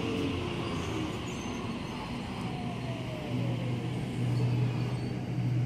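Waratah electric passenger train at the platform: a steady low electrical hum that grows louder about three seconds in, with a whine falling in pitch over about two seconds.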